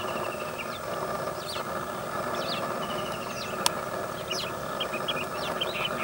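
Birds chirping, short high calls scattered through with two brief rapid trills, over a steady background hum. A single sharp click sounds a little past halfway.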